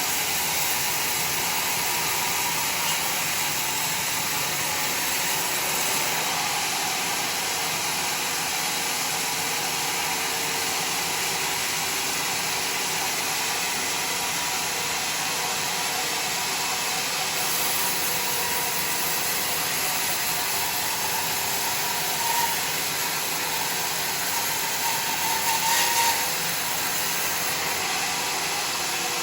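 Homemade sawmill running steadily with a dense, even machine noise, briefly louder twice in the last third.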